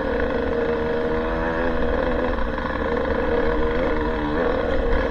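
Off-road motorcycle engine running at fairly steady revs, its pitch rising and falling slightly with the throttle.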